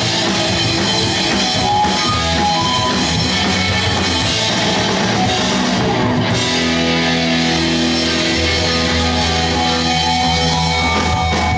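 Pop-punk band playing live: electric guitars, bass and drum kit, with no singing. The music breaks off briefly about six seconds in and comes back with held low notes.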